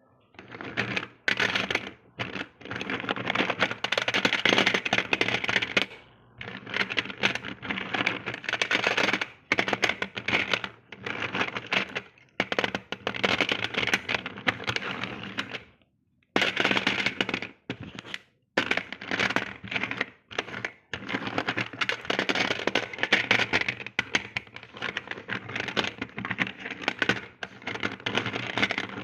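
Slate pencils cracking and snapping in dense runs of sharp, crackly clicks that last a few seconds each, with brief pauses between them.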